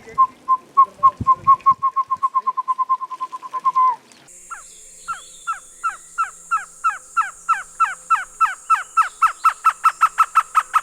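A person's whistled imitation of a Baird's trogon song: a run of short, evenly pitched notes that starts slow and speeds up over about four seconds. After a break, a second accelerating series of down-slurred notes follows, with a steady high insect buzz behind it.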